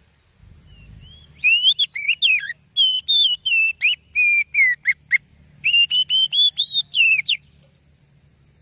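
Oriental magpie-robin (kacer) singing a rapid run of clear, varied whistled notes that sweep up and down, starting about a second and a half in and stopping after about seven seconds, with a brief pause in the middle.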